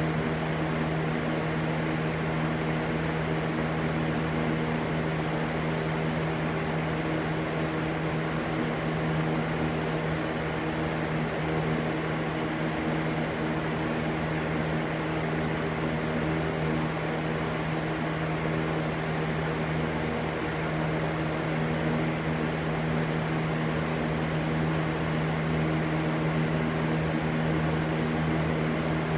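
Steady, unchanging rushing noise with a constant low hum underneath.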